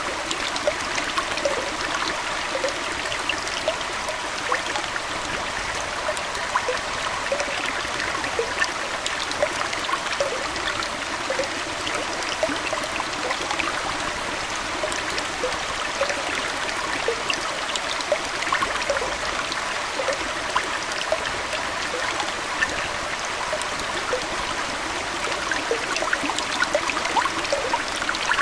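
Aquarium water trickling steadily, dotted with many small drips and bubbles.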